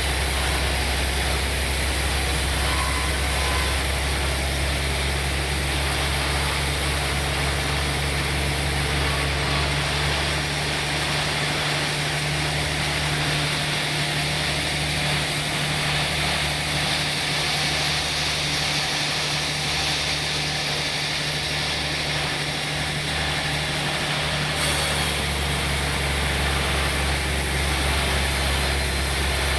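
Sawmill machinery running with a steady low hum and a wash of higher mechanical noise. The low hum and the top end change from about ten seconds in until about twenty-four seconds in, then return to how they were.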